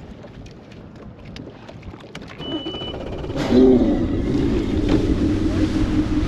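A short electronic beep, then a boat's outboard motor starts about three and a half seconds in and runs with a steady hum and a low rumble.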